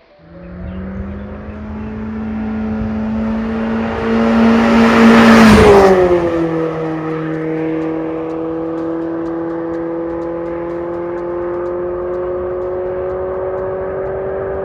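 Nissan Sentra's HR16DE 1.6-litre four-cylinder engine starting through an MS-R valved cat-back exhaust: it flares up, is loudest around five seconds in, then drops back about six seconds in to a steady idle.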